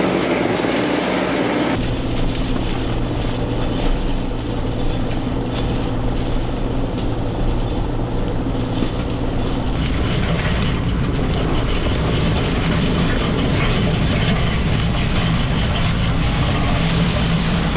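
Bobcat T66 skid steer's diesel engine running steadily while the Winfield chain harrow it drags rattles and clanks over the ground. The engine tone changes abruptly about two seconds in and again about ten seconds in.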